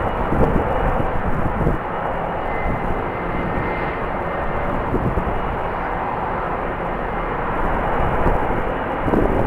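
Jet airliner engines running with a steady rush, a faint high whine showing briefly a few seconds in, with strong wind buffeting the microphone in short gusts.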